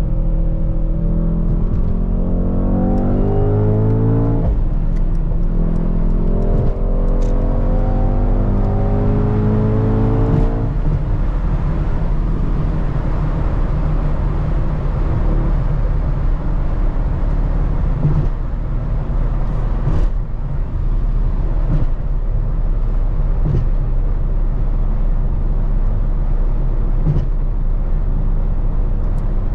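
Mercedes-AMG GT 63 S twin-turbo V8 pulling hard under acceleration, its pitch rising through a gear. There is an upshift about four seconds in, then a second rising pull that ends about ten seconds in. After that it settles into steady engine and road noise at cruise.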